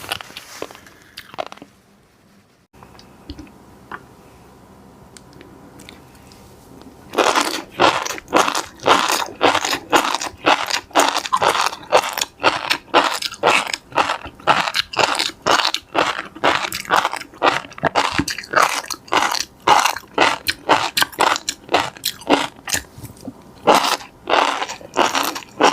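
Close-miked eating: crunching bites and chewing at about two to three strokes a second, starting after a quiet stretch of several seconds and pausing briefly near the end.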